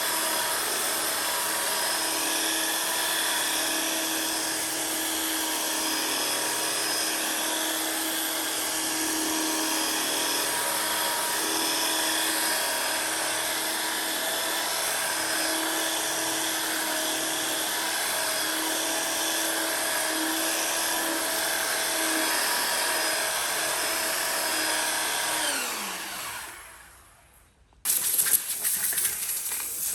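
Handheld electric power tool running steadily with a high motor whine, then switched off and spinning down, falling in pitch, near the end. About two seconds later a rapid scratchy rattling sound starts.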